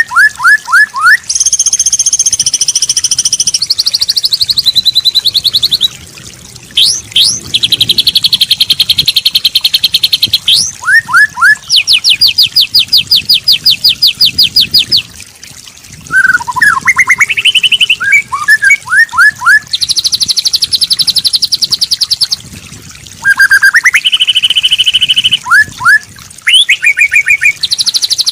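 Bird song played for training a white-rumped shama (murai batu): a continuous string of loud, varied whistled phrases mixing shama song with fill-in calls of other birds. It alternates quick upslurred notes, long rapid trills of repeated notes, and high held tones, with short pauses between phrases.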